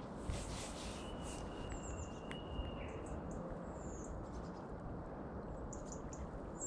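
Riverside ambience: a steady rush of flowing water and wind, with small birds giving short high chirps several times and one thin whistle held for about two seconds from around a second in.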